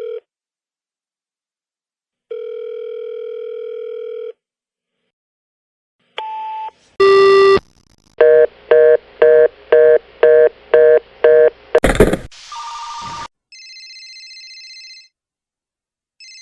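A run of telephone line signals. First comes a steady ringing tone about two seconds long. A short beep and a buzzy tone follow, then a fast busy signal: about eight loud, evenly spaced beeps at roughly two a second. It ends with a sharp click, a brief noisy tone and a higher warbling electronic tone.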